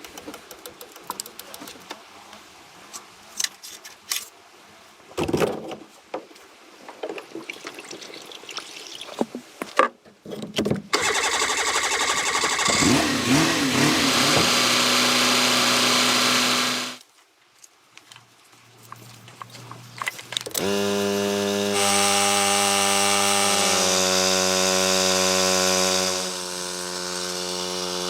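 Scattered clicks and knocks, then a motor running steadily for several seconds, stopping, and running again with its pitch shifting a few times.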